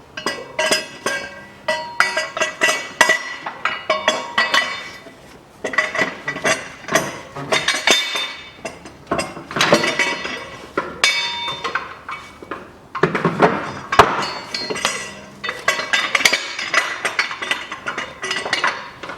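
Irregular metallic clinking and rattling of hand tools and steel bolts against metal engine parts, with short ringing tones, as the starter bracket bolts are fitted.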